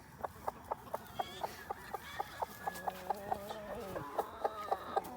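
Chickens clucking: a steady run of short clucks, about five a second, with a longer drawn-out call joining in about halfway through.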